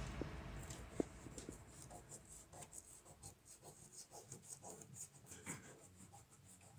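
Faint, irregular scraping and light ticking, a few strokes a second, with one sharper click about a second in, as of something being rubbed or scraped by hand.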